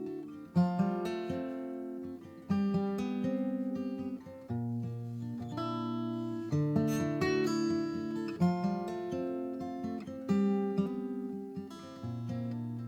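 Acoustic guitar playing an intro: a chord struck about every two seconds, each left to ring and fade before the next.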